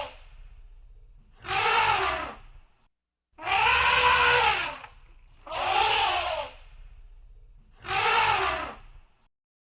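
Elephant trumpeting: four calls about a second long each, spaced roughly two seconds apart, each rising and then falling in pitch.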